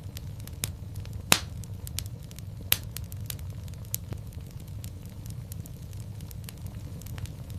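Fire in a fireplace crackling: scattered sharp pops and snaps over a steady low rumble of the flames, the two loudest pops coming about a second and a half and nearly three seconds in.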